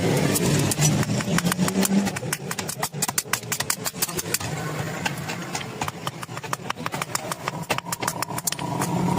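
A steady low engine or motor hum with many quick, irregular knocks and clicks from metalwork over it.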